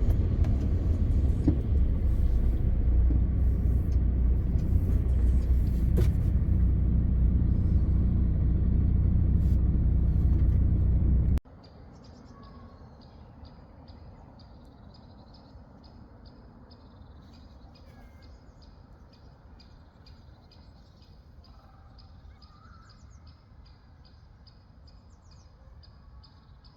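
Steady low rumble of a MAN TGX 520 truck's engine heard from the cab, cutting off abruptly about eleven seconds in. After it comes faint outdoor quiet with a rapid run of high chirps.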